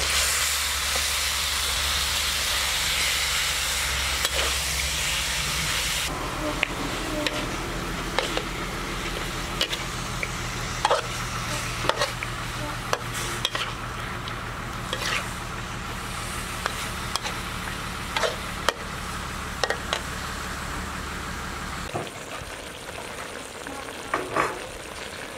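Raw chicken pieces hitting a hot wok of fried spice paste, sizzling loudly for the first few seconds, then frying more quietly. A metal spatula stirs them, scraping and clicking against the wok now and then.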